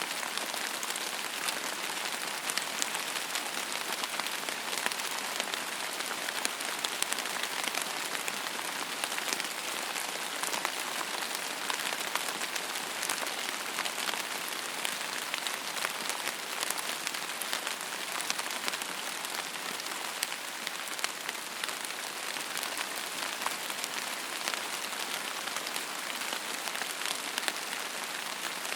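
Steady rain falling on a hard surface, an even hiss thick with fine, close drop patters.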